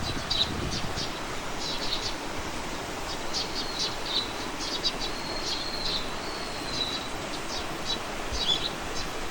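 Small songbirds chirping repeatedly with short high notes, with a couple of longer whistled phrases, over a steady background hiss.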